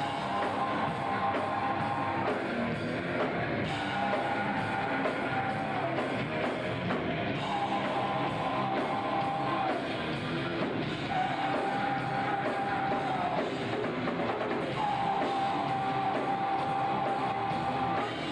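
Hard rock band playing live: drum kit and distorted electric guitars, with a long held high note returning every three to four seconds.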